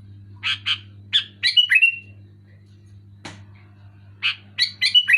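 Sooty-headed bulbul (kutilang) calling in lively bursts: two phrases of quick, harsh notes, each ending in a short clear whistle, about three seconds apart. A single click falls between them, over a steady low hum.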